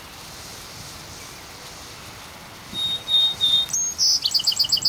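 A songbird singing: three short clear whistled notes about three seconds in, then a fast run of repeated notes near the end, over a steady faint hiss.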